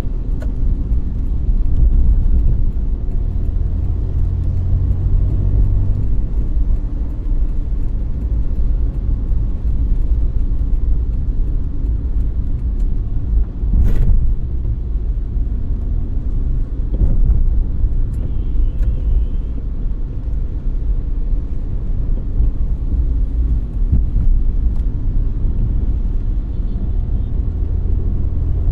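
Steady low road rumble of a car driving, with one sharp knock about halfway through and a few faint clicks.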